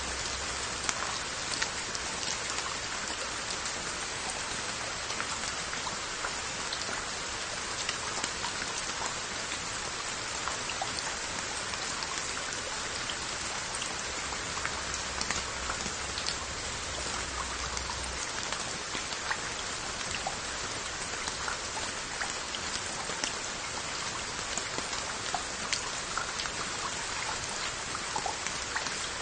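Steady rain falling on a jangdokdae of earthenware onggi crocks, a constant patter with many distinct drops tapping on the glazed lids.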